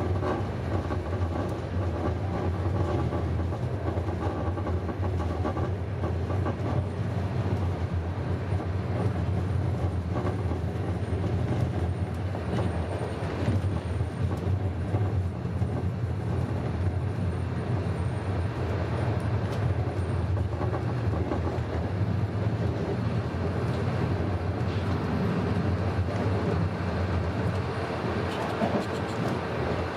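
Passenger train running at steady speed: an even rumble of the moving carriage with a low drone under it.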